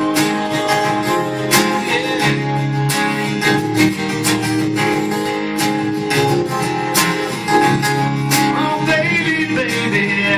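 Country song instrumental passage led by strummed acoustic guitar, playing steady chords.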